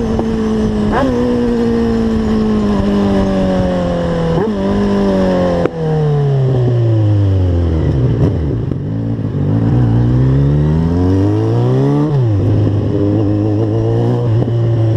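Motorcycle engine heard from the rider's seat as the bike slows: the engine note keeps falling, with quick jumps up about a second in and again around four and a half seconds as gears are dropped. There is a sharp click near six seconds. The engine sinks to a low note and then runs at a steady low pitch over the last few seconds.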